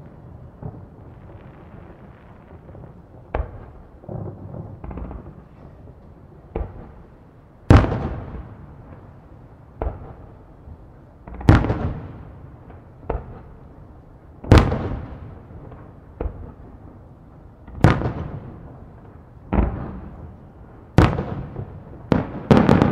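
Aerial firework shells bursting: about a dozen booms at uneven intervals, each trailing off in a rolling echo, with a quick run of bursts near the end.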